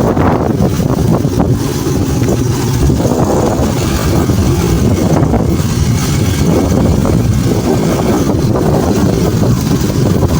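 Motorcycle running at road speed with heavy wind rumble on the microphone, a steady rough noise that does not let up.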